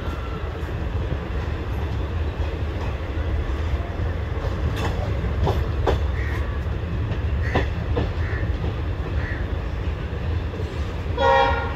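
Indian Railways passenger coach on the move, heard from its doorway: a steady low rumble with sharp clicks as the wheels cross rail joints and points, and a few short wheel squeals. Near the end a short train horn blast sounds.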